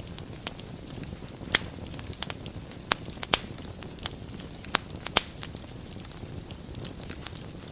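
Wood fire burning in a fireplace: a steady low rumble and hiss with scattered sharp crackles and pops, a few louder ones in the middle.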